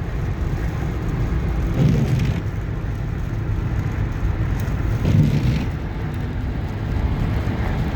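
Steady road and engine noise of a car on the highway, heard from inside the cabin as a continuous low rumble.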